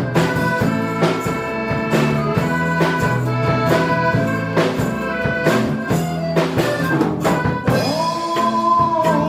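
Live band playing an instrumental passage between sung verses, with a steady drum beat under bass and held melodic tones.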